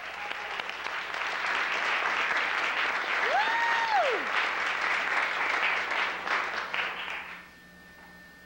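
Audience applauding and cheering for about seven seconds, with a short whistle from the crowd near the middle. The applause then dies away, leaving a quiet steady hum.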